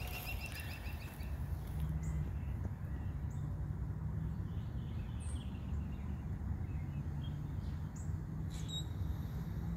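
Small birds chirping in scattered short calls, opening with a quick run of repeated notes, over a steady low outdoor rumble.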